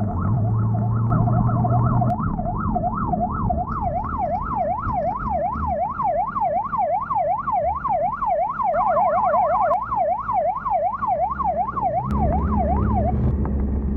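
Police escort siren wailing in a fast yelp, its pitch sweeping up and down about three times a second, with a second siren overlapping for part of the time. The siren cuts off near the end, leaving a low vehicle engine rumble.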